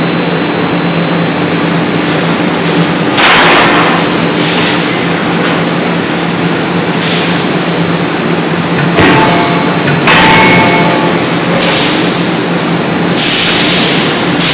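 Forging hammer machinery running loudly with a steady hum, broken by repeated short bursts of hiss every second or two, a few of them starting with a knock.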